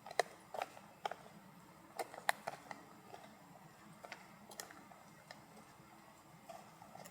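Irregular sharp clicks and ticks, a dozen or so, more frequent in the first few seconds and sparser after, over a faint steady background.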